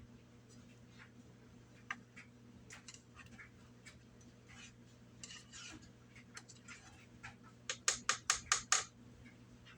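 Faint scattered clinks and knocks of a utensil working in an Instant Pot, with a quick run of about seven sharp taps near the end.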